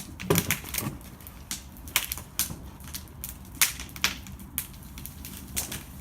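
Irregular sharp clicks and knocks, about ten over six seconds and unevenly spaced.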